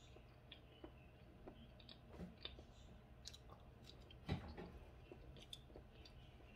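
Faint chewing and wet mouth clicks of a person eating a banana, with one louder bite a little over four seconds in.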